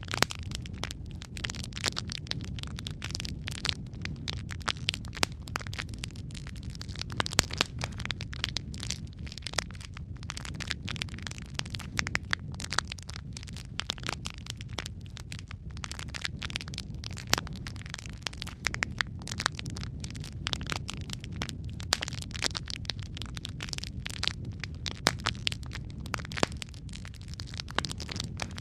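Burning logs in a fireplace crackling and popping: many sharp, irregular pops over a low, steady rumble of flames.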